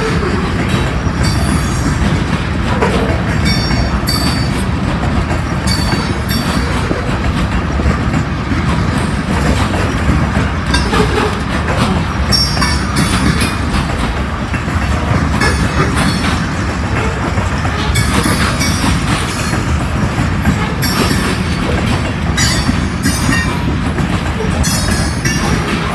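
Freight train cars rolling past, wheels clacking over rail joints, with intermittent high-pitched wheel squeal.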